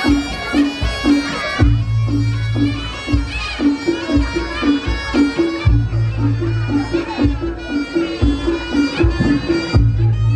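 Reog Ponorogo gamelan accompaniment: a nasal slompret shawm plays the melody over a steady, evenly repeating pulse of tuned gongs, with a deep gong stroke about every four seconds.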